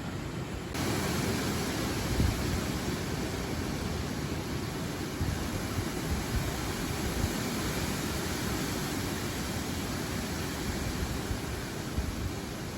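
Strong gusty wind through large forest trees, the leaves rustling, with a deep rumble from the gusts. It grows a little louder and fuller about a second in.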